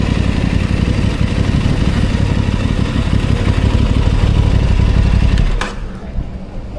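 Aprilia Tuono 660 Factory's parallel-twin engine running loud under a dense rushing noise. About five and a half seconds in, the level drops sharply with a click, leaving a quieter, steady engine note.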